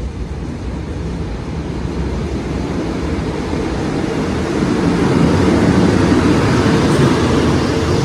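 Diesel train passing on the railway line, its engine and rolling noise growing louder to a peak about five seconds in.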